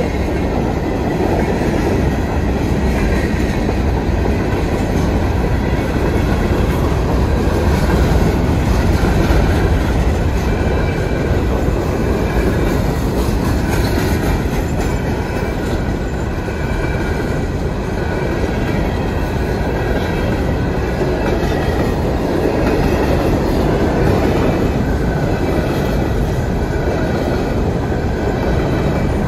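Wheeling & Lake Erie freight train's coal hopper cars rolling past close by: a steady loud rumble with the clickety-clack of steel wheels over the rails.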